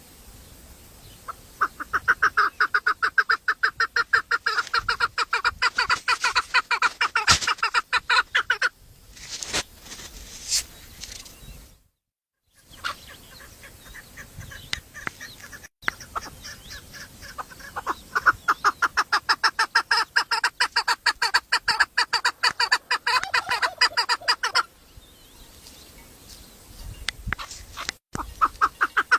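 A bird calling in two long runs of rapid, evenly repeated notes, with quieter calling between the runs.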